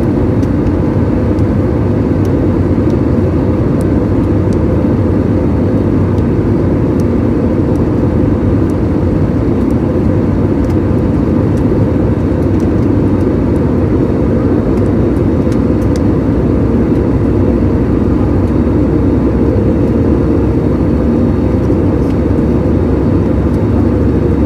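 Steady, deep drone of an airliner's cabin in flight: jet engine and airflow noise heard from inside the passenger cabin, unchanging throughout.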